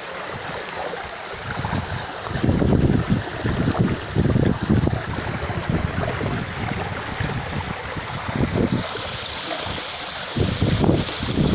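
Stream water running steadily, with gusts of wind buffeting the microphone about two seconds in and again near the end.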